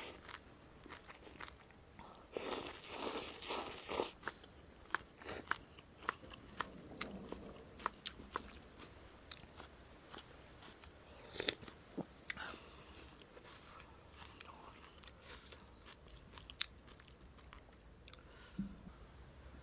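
A person eating close to the microphone: a run of crunching bites about two to four seconds in, then scattered smaller bites and chewing sounds.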